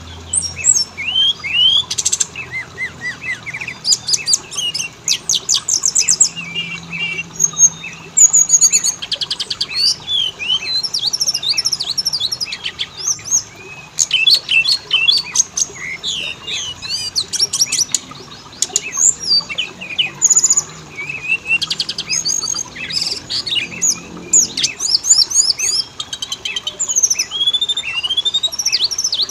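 Oriental magpie-robin (kacer) singing a continuous, varied song of clear whistled notes, rising and falling slurs and fast rattling trills, with hardly a pause.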